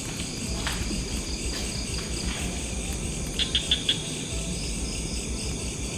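Crickets and other insects chirring steadily in a night-time chorus. A little past the middle, four quick, louder chirps stand out from it.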